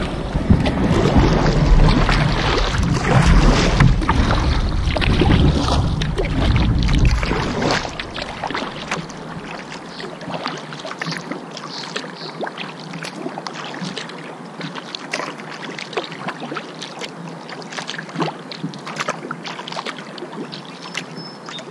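Kayak paddle strokes on a river: the blades splash and water drips and laps against the hull. Wind buffets the microphone with a low rumble for the first eight seconds or so, then drops away.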